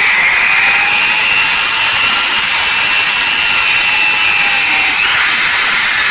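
A power tool running steadily with a high whine over a hiss, working metal. The pitch shifts up slightly about five seconds in.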